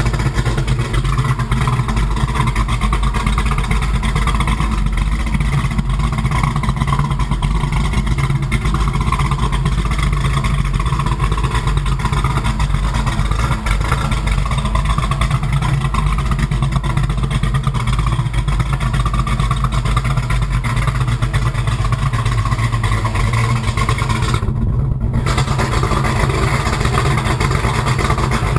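Car engine running steadily through a new aftermarket exhaust with an X-pipe and MagnaFlow XL mufflers, giving a steady low exhaust rumble.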